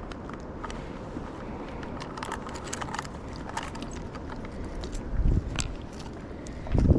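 Strong wind buffeting the microphone as a steady low rumble, with two heavier gusts about five and seven seconds in, over light clicks and rattles of handling.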